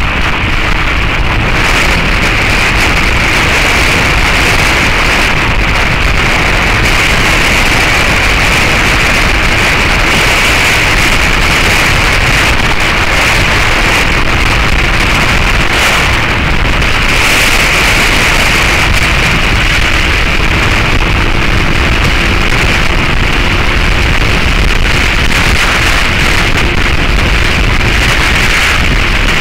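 Heavy wind noise on the camera microphone of a moving motorcycle. Under it, the Suzuki SV650S's V-twin engine runs at a steady cruise through its Beowulf aftermarket exhaust, as a faint steady engine note.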